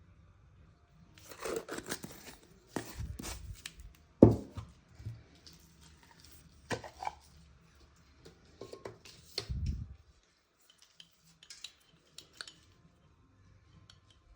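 Kitchen handling noises: dishes and containers clattering and scraping, with a sharp knock a little over four seconds in and a duller thump near ten seconds.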